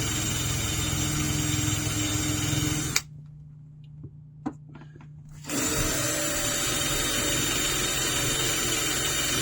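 Power drill boring through a tough aluminum shovel shaft. It runs steadily, stops with a click about three seconds in, two or three light ticks follow, and it starts up again about two and a half seconds later.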